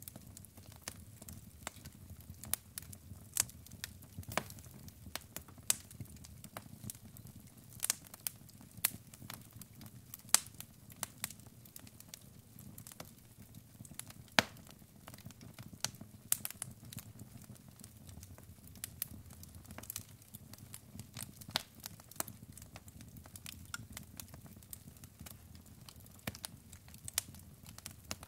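Wood fire burning in a fireplace: irregular sharp crackles and pops from the logs over a soft low rumble of the flames.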